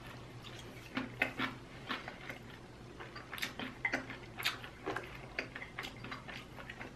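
Close-up chewing sounds: soft, irregular wet clicks and smacks from a mouth chewing chicken, a few every second.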